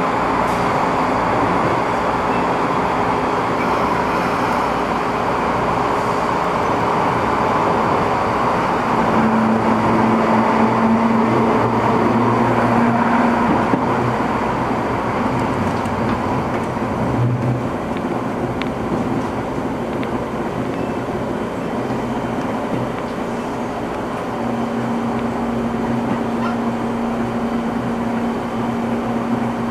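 Running sound inside a moving MTR East Rail line train car: a steady rumble and rush of wheels on rail. A low hum comes in about a third of the way through, fades, and returns near the end.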